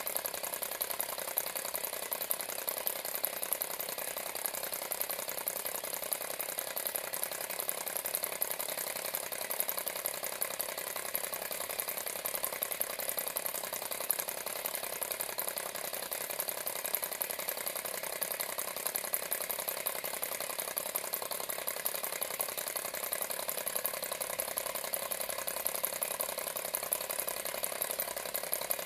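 Alcohol-fired model Stirling engine running steadily, its moving parts making an even, rapid clicking rattle.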